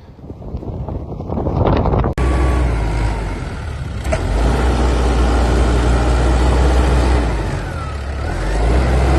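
Gusty wind on the microphone, then a sudden cut about two seconds in to a loud, steady low rumble of a motor vehicle running, which carries on to the end.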